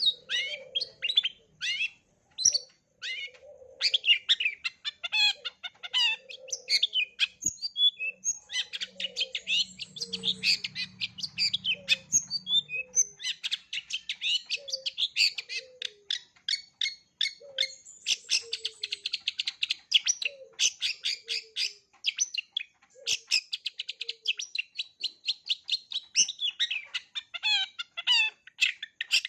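Long-tailed shrike (cendet) singing a rapid, varied song of dense chirps and trills packed with mimicked phrases, with fainter short lower notes in between.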